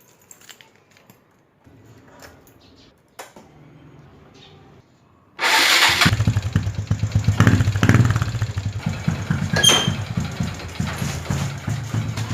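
A motor starts abruptly about five seconds in and keeps running with a steady low pulsing, after a few faint knocks and handling sounds.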